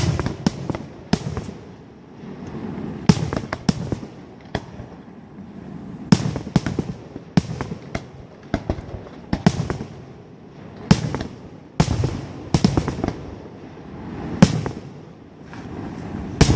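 Fireworks display: volleys of sharp bangs and cracks every few seconds, each rising out of a low rumbling swell.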